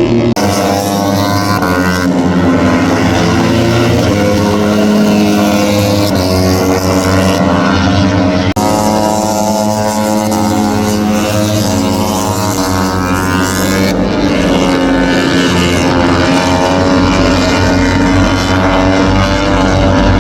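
MotoGP racing motorcycles at full throttle on track, their engine notes rising and falling as they rev through the gears and pass by. The sound changes abruptly several times, like cuts between shots.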